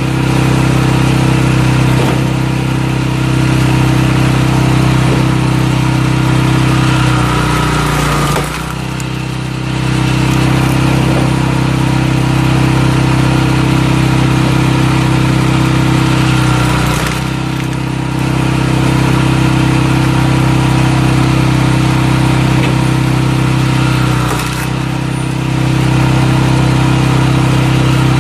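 Small engine of a walk-behind cultivator running steadily while it powers firewood splitting. Three times its note dips and recovers, the engine bogging briefly under load as a log splits.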